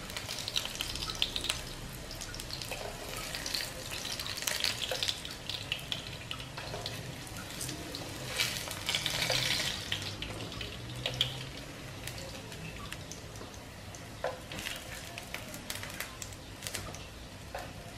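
Eggplant slices sizzling and crackling in hot frying oil in a non-stick pan, with occasional small clicks as chopsticks lift the fried slices out.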